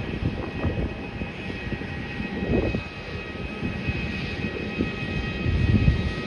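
Jet airliner's engines heard close by: a continuous, crackling low rumble with a few steady high whining tones above it.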